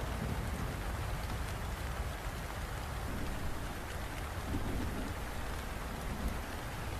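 Steady rain falling, an even hiss with fine scattered drop ticks, over a continuous low rumble.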